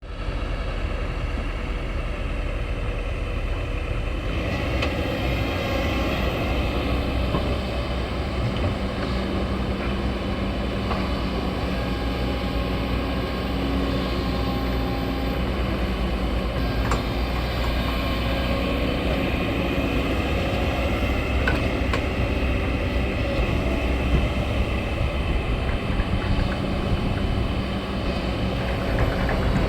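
Heavy diesel engine running steadily, a continuous low rumble with a few faint knocks over it.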